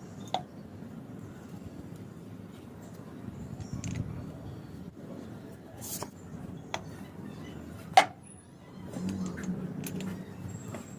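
Several sharp, separate clicks or knocks over a low background rumble; the loudest comes about eight seconds in.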